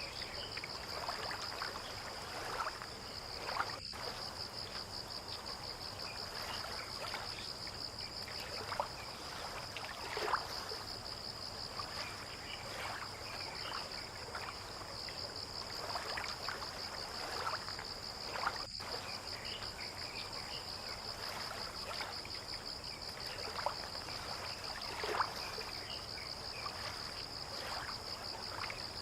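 A steady, fast-pulsing, high-pitched insect chorus, like crickets, over water lapping with scattered small splashes at the harbour edge.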